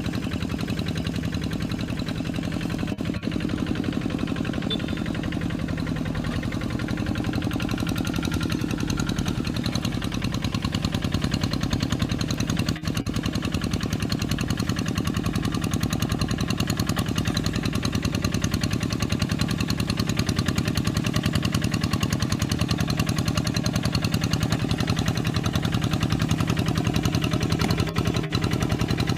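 Kubota RD85DI-2S single-cylinder diesel on a Quick G3000 hand tractor running steadily under way, its fast, even firing beats clattering without a break.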